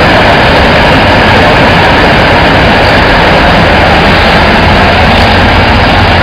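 Rice husk carbonization furnace running: a loud, steady machine noise with a low hum underneath.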